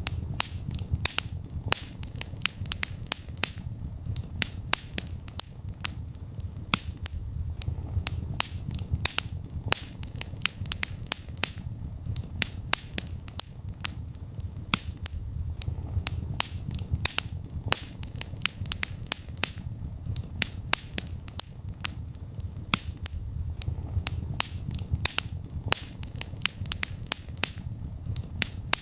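Wood fire crackling in a fireplace: frequent, irregular sharp pops and snaps, several a second, over a steady low rumble of the burning flames.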